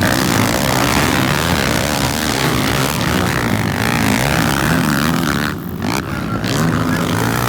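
Several motocross bikes' engines racing together, their pitches rising and falling as the riders rev and shift, with a brief dip in level about six seconds in.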